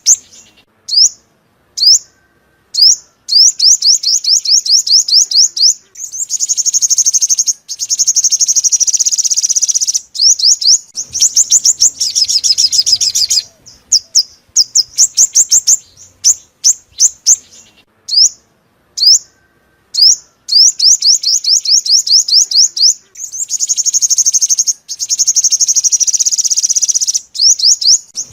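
Sunbird song: fast, high trills of short down-slurred notes, in repeated phrases broken by brief pauses.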